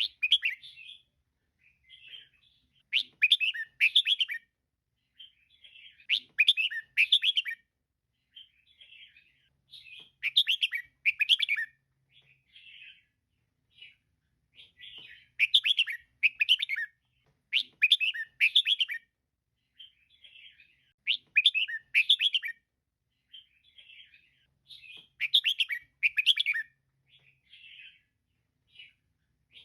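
Female red-whiskered bulbul calling: loud bursts of quick chirps about every three to four seconds, with softer chirps between them.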